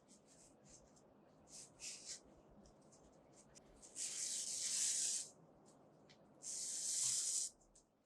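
Two long hissing sounds of about a second each, the first about four seconds in and the second near the end, after faint rustling and a couple of soft taps.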